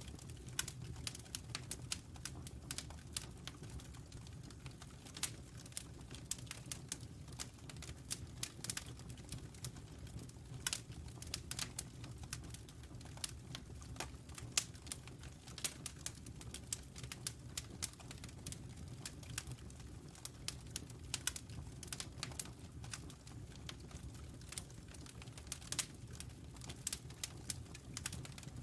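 Wood fire with burning logs crackling: dense, irregular pops and snaps, a few louder ones, over a steady low rumble.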